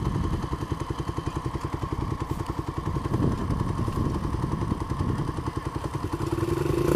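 Small Honda 70 dirt bike's four-stroke single-cylinder engine idling in neutral just after being kick started, a steady rapid putter, with one brief knock about three seconds in.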